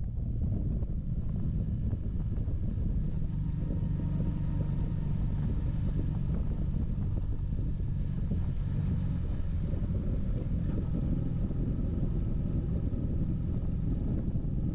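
Motorcycle engine running steadily at cruising speed, with a low, even rumble of wind and road noise.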